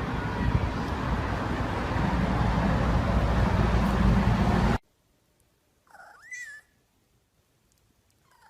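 A loud, steady rushing noise cuts off abruptly about five seconds in. After a moment of near silence, a domestic cat gives one meow that rises and falls in pitch, and a faint short call follows near the end.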